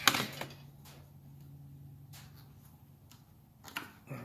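Light clicks and knocks from plastic toilet hose fittings and clamps being handled. A sharp knock comes right at the start, then a few scattered light ticks over a faint low hum.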